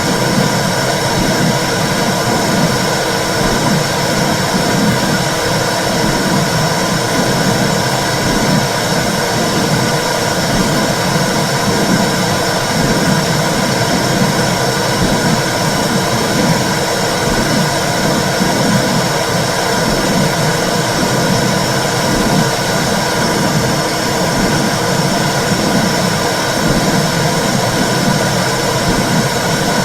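Womb sound for soothing babies: a loud, steady whooshing noise with an uneven pulsing in the low range.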